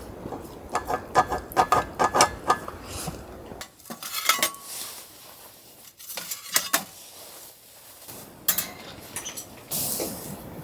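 Metal dishes and utensils clinking and knocking together. A quick run of ringing clinks comes in the first couple of seconds, then occasional knocks.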